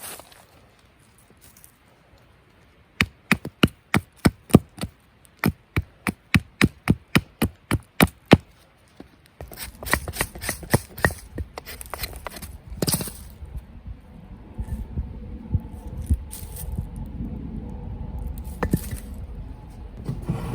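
Wood being chopped: a run of sharp strikes, about three a second with a short break partway, as a hatchet cuts into wood for fatwood. After that comes rustling and crunching with scattered knocks as the wood is handled.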